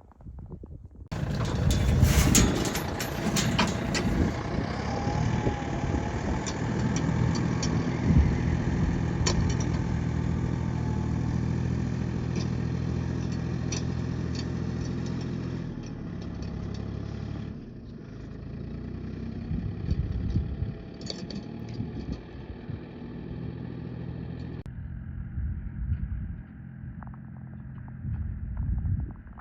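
A motor vehicle engine running at a steady idle, with knocks and rattles over it, broken by abrupt changes in the sound about every few seconds.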